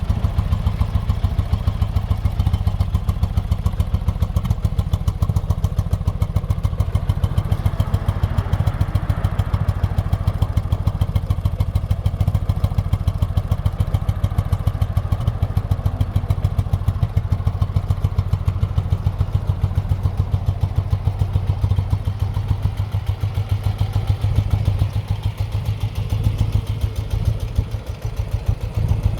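1972 BMW R75/5's air-cooled 745 cc flat-twin (boxer) engine idling steadily with an even exhaust beat as it warms up after a cold start, sagging briefly near the end.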